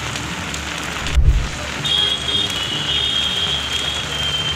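Steady rain falling on a wet city road. A short low thump comes about a second in, and a thin high tone enters about two seconds in and holds.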